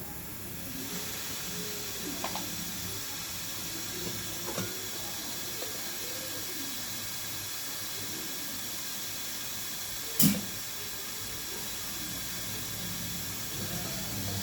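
Steady hiss of escaping gas that sets in about a second in and holds, with one sharp knock about ten seconds in and a few faint ticks earlier.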